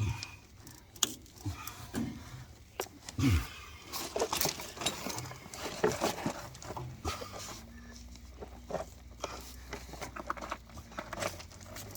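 Irregular clicks, knocks and clinks of hands handling metal plumbing parts and tools. A low steady hum comes in about halfway.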